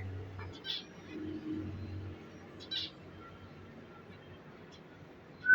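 Lovebirds giving a couple of short, shrill chirps, with a faint thin whistle between them, over a low steady hum.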